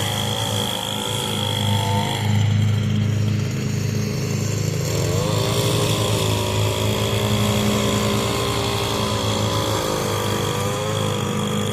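Echo SRM 225 two-stroke string trimmer running at low RPM, its wavering engine note easing off about two seconds in and picking back up about five seconds in. Underneath is the steady low hum of a Craftsman riding mower's Briggs & Stratton engine working in the distance.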